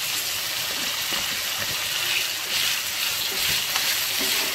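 Marinated chicken pieces sizzling in hot ghee and masala in a non-stick kadai: a steady hiss as the wet marinade hits the hot fat, with a silicone spatula stirring through it.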